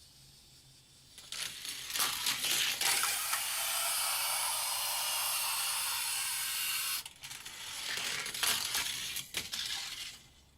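Hot Wheels die-cast car, a 2010 Camaro SS, rolling fast down plastic Hot Wheels track with a steady hiss from its wheels and clicks at the track joints. After about seven seconds this turns to broken clattering and clicks, then stops.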